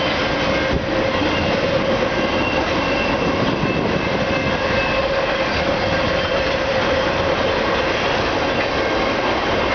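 Freight cars of a BNSF train rolling past close by: a steady, loud rumble of steel wheels on rail with a thin squeal held over it.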